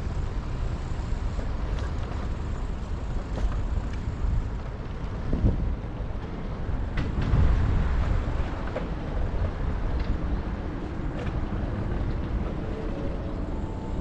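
Steady low rumble of wind buffeting and road noise on a bicycle-mounted action camera while riding, mixed with traffic noise.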